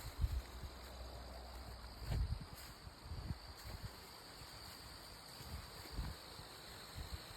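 Insects trilling in a steady, high-pitched drone, with a few soft low thumps, the most distinct about two seconds in and again about six seconds in.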